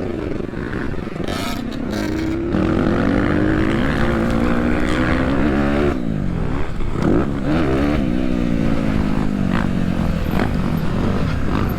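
Dirt bike engine running hard on a motocross track, its pitch climbing and falling as the throttle is worked, with a sharp drop and a fresh climb about six seconds in.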